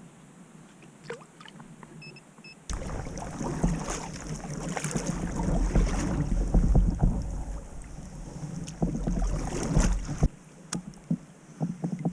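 Kayak on the water: wind on the microphone and water noise against the hull, starting abruptly about three seconds in and cutting off abruptly near the end. A few faint clicks and knocks come before and after it.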